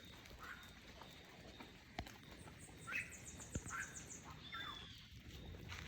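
Faint wild birds calling: a few short chirps and, around the middle, a fast high trill of about ten notes, with two sharp clicks in between.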